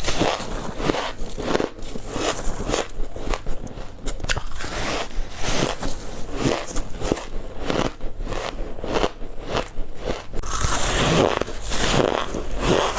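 A person biting into white ice with repeated crisp crunching bites, about one or two a second, and a denser burst of crunching about ten seconds in.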